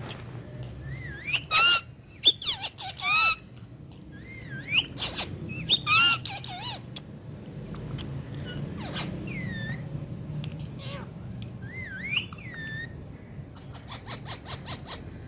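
Indian ringneck parakeet calling and chattering: a string of short squawks and gliding chirps, loudest in the first half, with a run of small clicks near the end. A low steady hum sits underneath.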